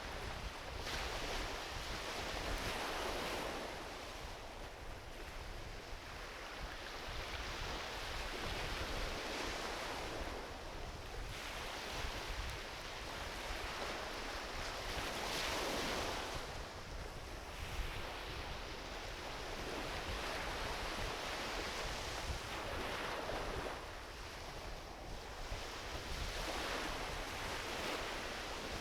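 Small ocean waves washing onto a beach, swelling and falling back every few seconds, with a low wind rumble on the microphone.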